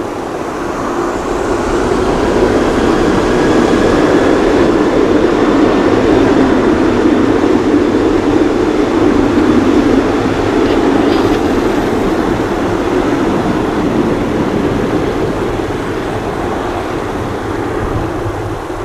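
Boeing 737-800 jet engines running at high power close by: a loud, steady roar that builds over the first couple of seconds, holds, then slowly fades.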